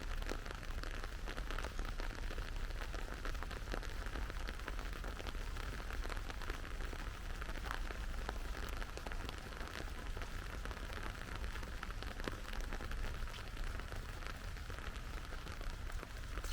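Steady rain falling, with many small drop ticks over an even hiss and a steady low rumble underneath.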